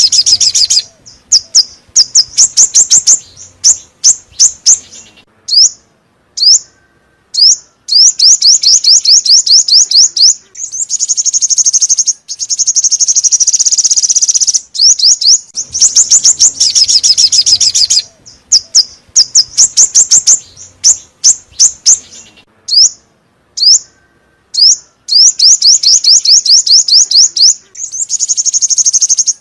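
Song of the bird Vietnamese bird-keepers call 'chim 5 màu' (five-colour bird), a recording used as a lure call for trapping: rapid high-pitched chirps and fast trills in repeated phrases with short pauses between them.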